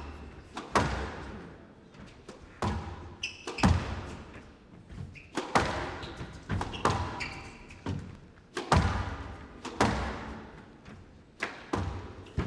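Squash rally: the ball cracks off rackets and thuds against the court walls and floor about once a second, with a few short squeaks between strikes, echoing in the hall.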